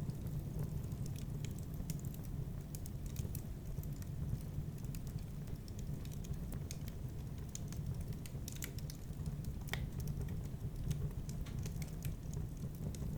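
Fire in a fireplace crackling: irregular sharp pops and snaps scattered over a steady low rumble.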